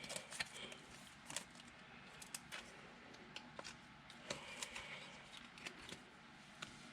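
Faint rustling and scattered light clicks of football trading cards and their wrappers being handled.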